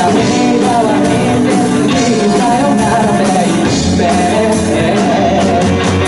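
Live band playing a pop-rock song with a singer, keyboard, guitar and drums, heard in a hall.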